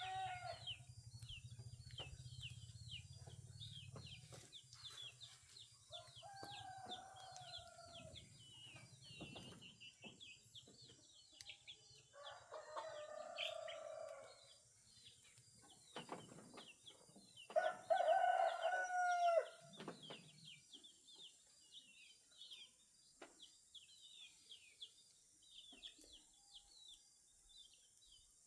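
Roosters crowing three times, each crow about two seconds long, the loudest about two-thirds of the way through. Small birds chirp constantly over a steady high hiss.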